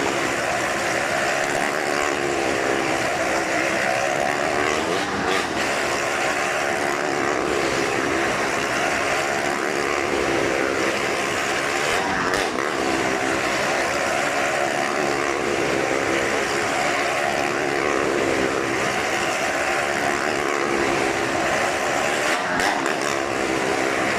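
Motorcycle engines running hard as riders circle the Wall of Death. The engine note swells and fades in a repeating cycle every few seconds.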